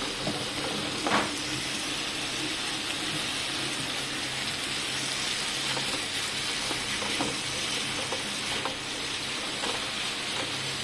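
Cauliflower frying with spice paste in a pan, sizzling steadily, with a sharp knock about a second in and a few lighter clicks later on.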